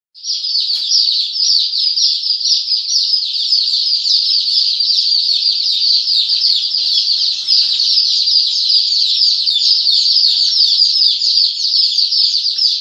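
A crowd of day-old chicks peeping, many high, short, falling peeps overlapping into one continuous loud chorus that starts suddenly.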